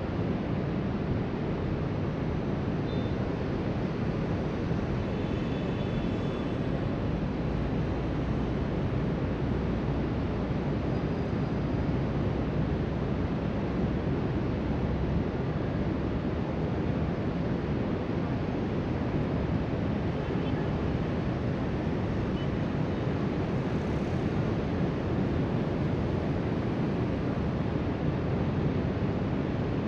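Steady wash of ocean surf breaking along the beach, mixed with wind buffeting the microphone.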